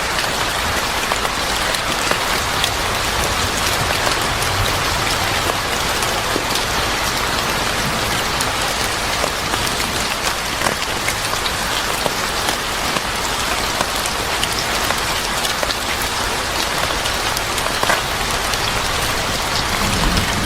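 Steady rain falling on a hard surface, an even hiss dotted with scattered sharp drop ticks.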